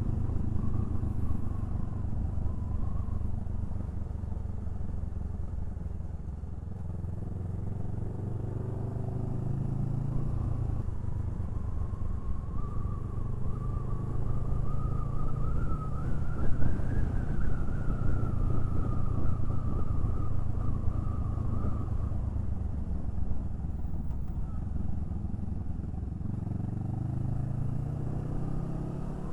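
Honda Rebel 500's parallel-twin engine running under way, a steady rumble whose pitch climbs as the bike speeds up about halfway through, then falls off again and rises once more near the end.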